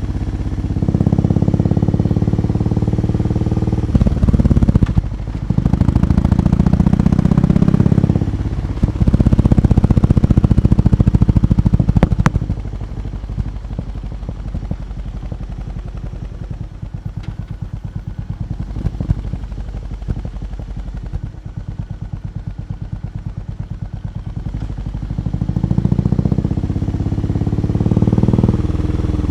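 BMW R18 B motorcycle's big boxer twin engine, revved up and held three times for a couple of seconds each, then settling to a steady pulsing idle, and revved again near the end with the pitch climbing.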